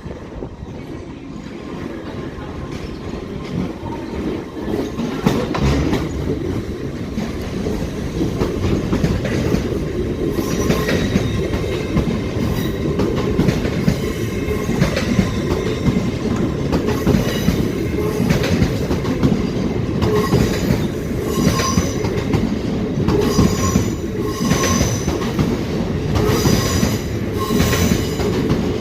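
A train running through the station, its wheels squealing in short repeated high tones and clicking over the rail joints. It grows louder over the first ten seconds or so, then keeps a steady heavy rumble.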